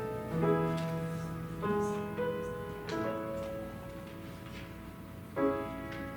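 Slow instrumental keyboard music: sustained chords held and changing about every second or so, with a louder chord coming in about five seconds in.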